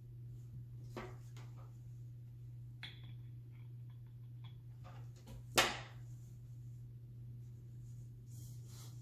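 Small handling sounds as jute cord is wrapped and hot-glued around a glass vase: a few soft clicks and taps, and one sharper knock about five and a half seconds in, over a steady low hum.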